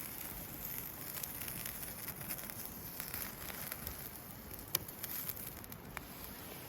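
Campfire crackling, with scattered small pops and one sharper pop near five seconds in.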